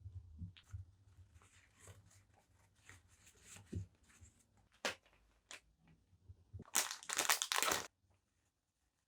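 Hands handling stationery packaging: scattered light taps and rustles, then about a second of loud crinkling about seven seconds in.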